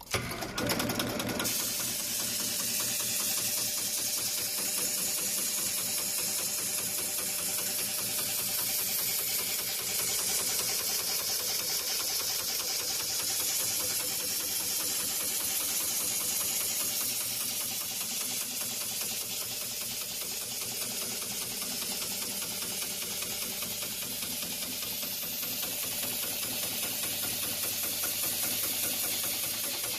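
Heavy-duty industrial pattern sewing machine with a large barrel shuttle hook, running steadily as it stitches thick thread through extra-thick webbing, with a rapid, even stitching rhythm and a hiss. It starts suddenly.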